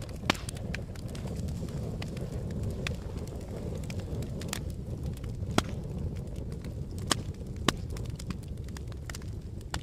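Campfire burning: a steady low rumble of flames with sharp crackles and pops of burning wood at irregular intervals, the loudest pops just after the start and around the middle and two-thirds of the way through.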